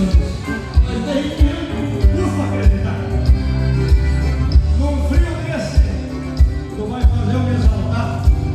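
Live gaúcho band music played over a PA, with a steady kick-drum beat a bit under two a second over a heavy bass line.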